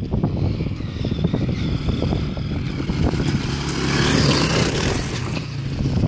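Honda CRF230 dirt bike's single-cylinder four-stroke engine running and getting louder about four seconds in, with knocks and clatter from the bike. Among them is a metal clank of the wheel rim hitting the ground through the flat tire.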